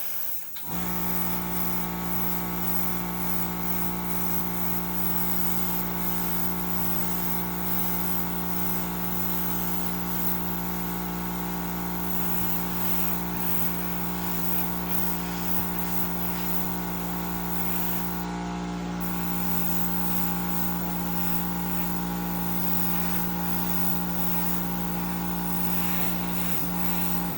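Small electric air compressor, of the kind used to feed an airbrush, switching on about a second in and running with a steady hum, then cutting off suddenly at the end.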